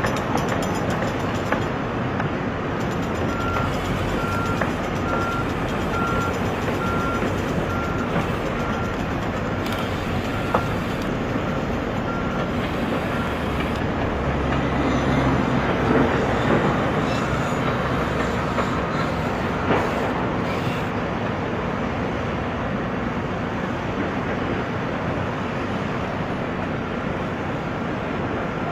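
RC model truck's reversing beeper, a steady series of high beeps lasting about ten seconds, over a steady noise. A louder low rumble comes a little past the middle.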